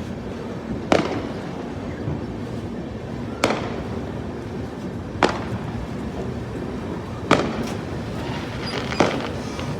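Train wheels banging sharply over rail joints as the Sealdah Rajdhani Express rolls slowly into the station. Five loud, uneven clanks come about two seconds apart over a steady rumble of the coaches.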